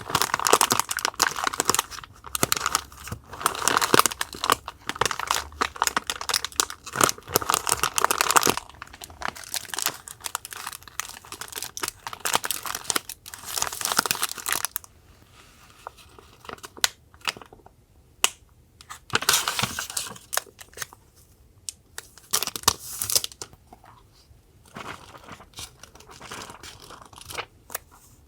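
Paper and packaging being handled, crinkling and rustling up close. The rustling is dense for the first eight seconds or so, then comes in shorter bursts with quiet gaps between.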